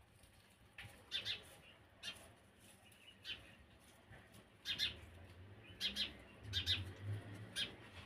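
Birds giving short, sharp chirps, about eight of them, scattered irregularly and coming more often in the second half.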